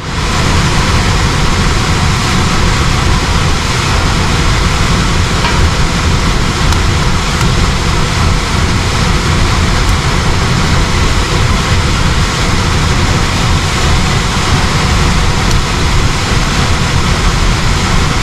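Goodman air handler's blower running at full speed, a loud steady rush of air, with the system fired up on its electric heat strips.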